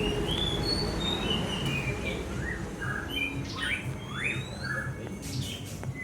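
Young caged songbirds calling: a scatter of short chirps and quick rising and falling whistled notes, with a faint low hum underneath.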